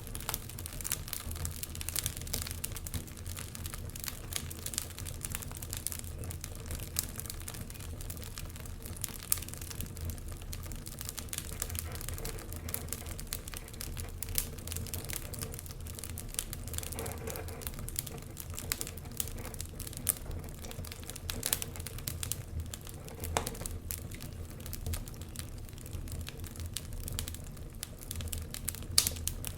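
Wood fire crackling in a fireplace: a constant scatter of small snaps and pops over a steady low rumble of the flames, with a few louder pops, one near the end.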